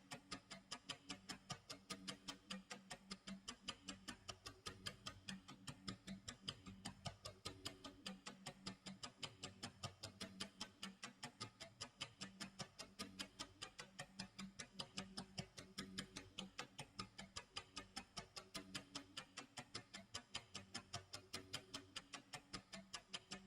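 Clock tick-tock sound effect: a quiet, fast, even run of ticks, with a soft low tone underneath.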